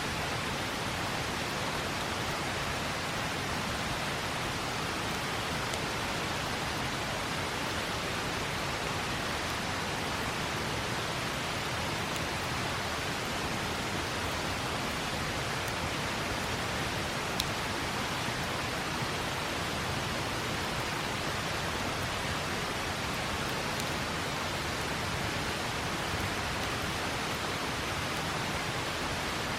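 Steady rushing of a flowing river, with a few faint crackles from a campfire, one standing out about halfway through.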